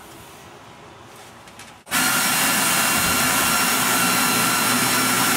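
A power tool switching on about two seconds in and running steadily at a constant speed: a loud, even rush with a steady high whine over it.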